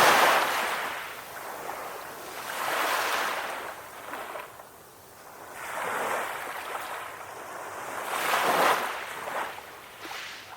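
Small ocean waves washing onto the shore, a wash of surf noise swelling and fading every two to three seconds.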